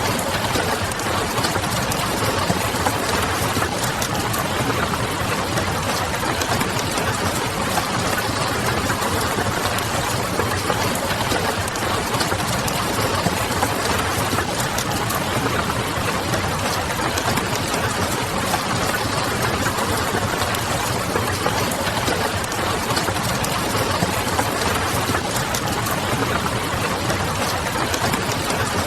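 Wood fire crackling with a steady wash of rain over it and a low hum underneath.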